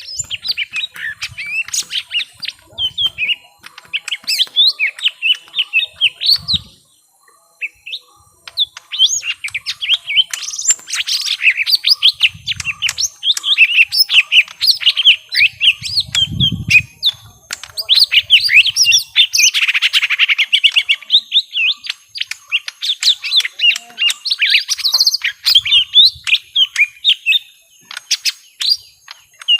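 Young lesser green leafbirds (cucak ijo mini) in a fighting exchange: dense, rapid chattering and sliding whistled notes. The calls pause briefly about seven seconds in, then resume. A low thump comes about halfway through.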